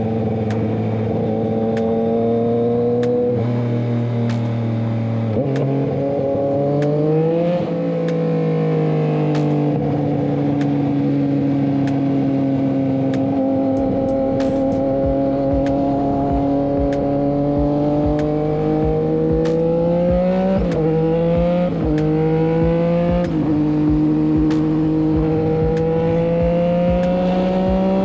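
Motorcycle engine running under way on a ride, its pitch climbing and dropping with throttle and gear changes: several shifts between about three and eight seconds in and again from about twenty seconds in, with a long steadier stretch between.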